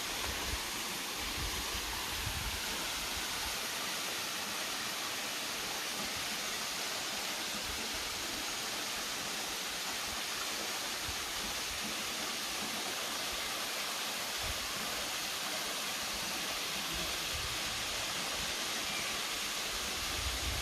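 Agura River water rushing steadily over its falls and cascades, an even rush with a few low bumps near the start.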